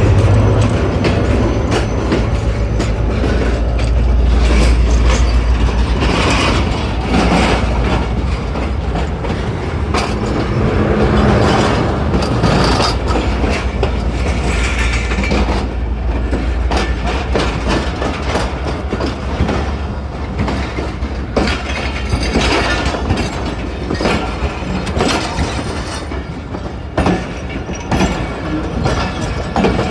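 Train running on the rails: a steady low rumble with the irregular clickety-clack of wheels passing over rail joints.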